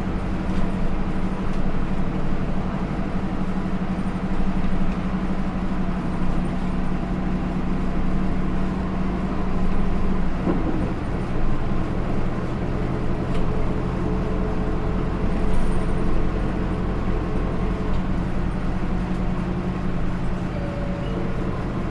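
A Hino Rainbow II bus's Isuzu 4HK1-TCH four-cylinder turbo diesel running steadily under way, heard inside the bus along with road noise. About halfway through, the engine note changes pitch and settles at a new steady tone.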